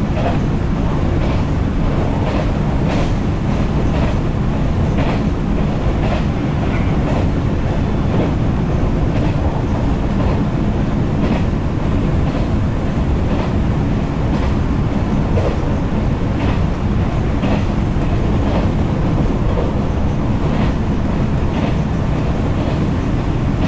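JR 113-series electric train running at speed, heard from inside the carriage: a steady low rumble of wheels and running gear, with short wheel clicks over rail joints about once or twice a second.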